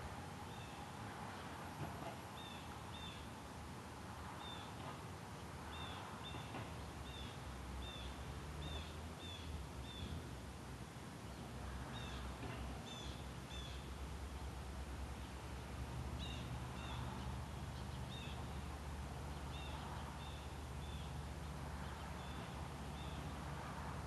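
A small bird chirping again and again in short, high double notes, in little groups, over a low steady rumble that grows louder partway through.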